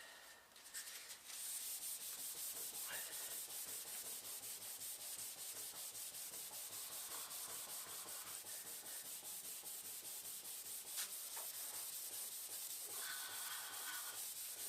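Hand wet-sanding of car body paint with 500-grit wet-and-dry paper and soapy water. A steady hiss of quick, even back-and-forth strokes starts about a second in.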